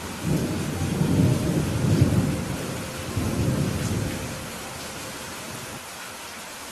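Steady rain hissing, with a long roll of thunder rumbling in several swells over the first four seconds or so before fading back to the rain alone.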